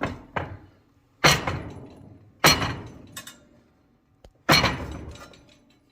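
Hammer blows on a rivet, smashing it down to fasten the metal plates: about five hard strikes, each ringing out and fading, with a couple of lighter taps between them.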